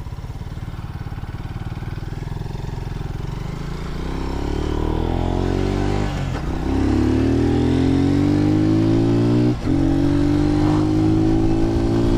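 Lifan KP Mini 150 motorcycle's single-cylinder engine, ridden at low revs and then accelerating, its pitch climbing. Two upshifts, about six seconds in and again near ten seconds in, each a short dip before the pitch climbs again.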